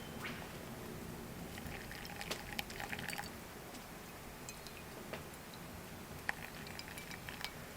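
Small wood campfire crackling faintly, with scattered sharp pops and ticks.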